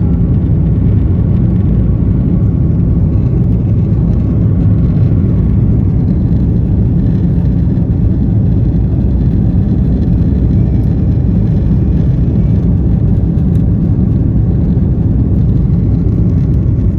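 Steady, loud low rumble of an Airbus A330-200's General Electric CF6 engines and the airflow around the fuselage, heard inside the passenger cabin during departure.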